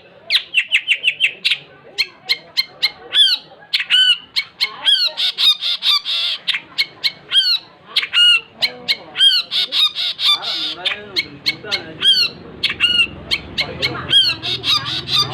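Long-tailed shrike (cendet) singing energetically, a fast, unbroken stream of short sharp chattering and whistled notes.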